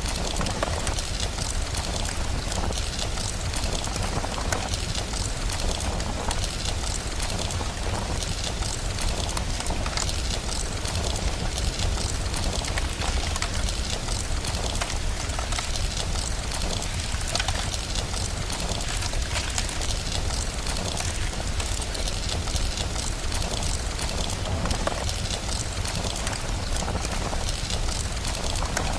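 Steady rain with a fire crackling in many small pops, over a constant low rumble.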